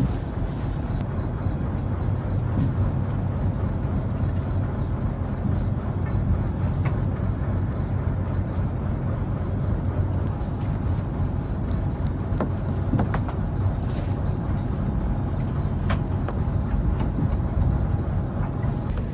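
Fishing trawler's diesel engine running steadily, a low even drone, with a few faint knocks on board.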